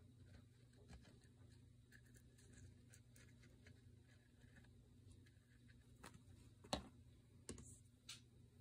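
Near silence: room tone with a few faint taps and rustles from handling paper craft materials, and one sharper click about seven seconds in.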